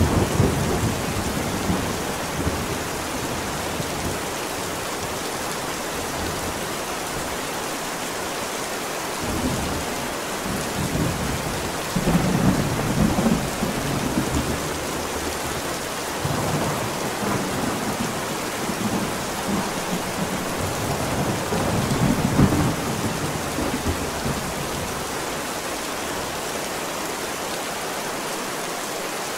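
Thunderstorm: steady heavy rain with rolls of low thunder rumbling several times, the loudest about halfway through and again past two-thirds, leaving only rain for the last few seconds.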